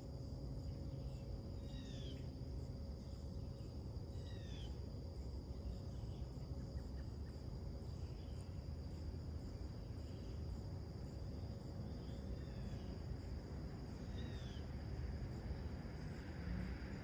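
Birds giving short, curved chirps every few seconds over a steady high insect drone, such as crickets, and a low rumble.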